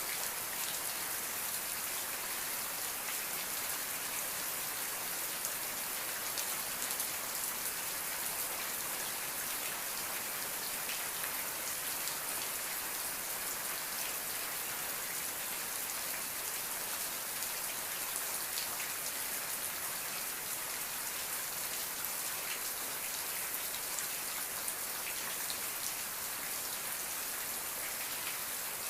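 Steady rain falling on a surface, an even hiss full of fine drop patters with no thunder.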